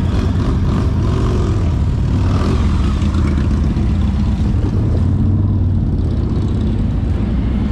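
Motorcycle engines running steadily with a deep, even drone.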